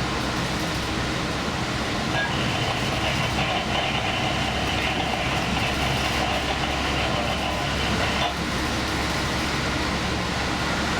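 Diesel limited-express train running along the line, heard from inside the front car: a steady low rumble of engine and wheels on the rails. A higher steady whine joins about two seconds in and drops out about eight seconds in.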